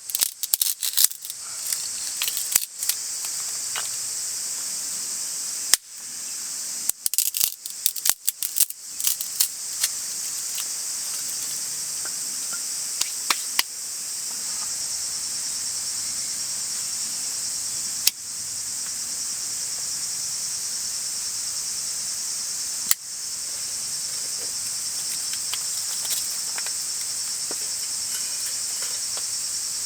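Summer insect chorus, a steady high-pitched drone. A scatter of sharp clicks and knocks falls mostly in the first ten seconds, with a few single ones later.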